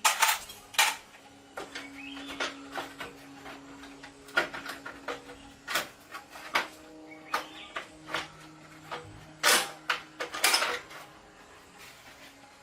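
Metal parts and tools clinking and knocking irregularly during hands-on repair work, with a louder cluster of clatter near the end, over a faint steady tone.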